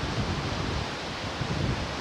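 Ocean surf washing steadily on the shore, with wind buffeting the microphone in an uneven low rumble.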